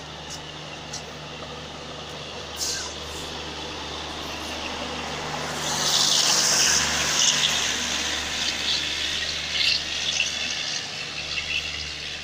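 Indian Railways express coaches rolling past close by, a steady rush of wheels on rail with occasional clicks over the rail joints. A loud hissing rush about six seconds in, as the luggage brake and generator car goes by, is the loudest part.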